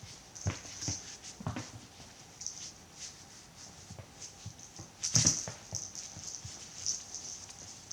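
Cats playing with a toy mouse: a few scattered thumps and scuffles, the loudest about five seconds in.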